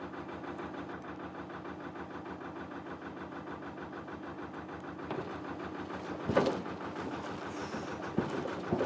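A narrowboat's diesel engine idling with an even, rapid thud. About six seconds in there is a sharp clunk, and two lighter knocks follow near the end.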